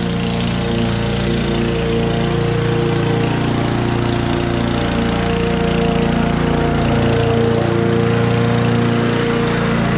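Honda four-stroke walk-behind lawn mower engine running steadily while mowing.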